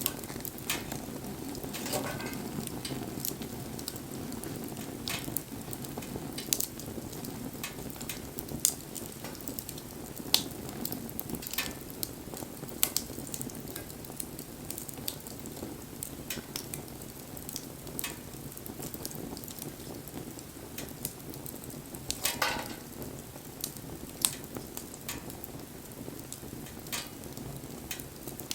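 Wood campfire burning: a steady low rush of flame with frequent sharp crackles and pops from the burning wood, a couple of them longer and hissing.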